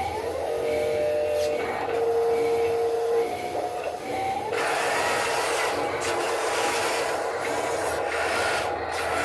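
Machinery running: a steady whine that shifts in pitch, then a dense rasping, scraping noise from about four and a half seconds in.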